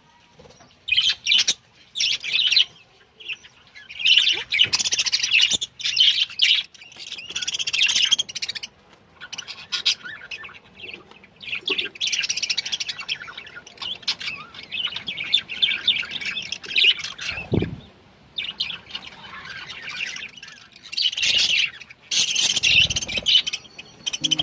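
Budgerigars chirping and chattering in bursts of rapid warbling, with short pauses between bursts.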